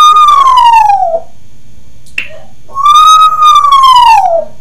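African grey parrot giving two loud, long whistles, each held and then sliding down in pitch; the second is longer. A short click comes between them.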